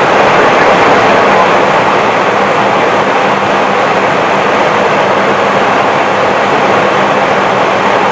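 Steady rushing flight-deck noise in an Airbus A320 in flight: airflow and engine noise, with a constant low hum underneath.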